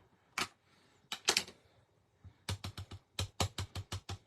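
A rubber stamp being tapped quickly on an ink pad to ink it, about five light taps a second, starting a little past halfway. Two louder clacks come before it, near the start.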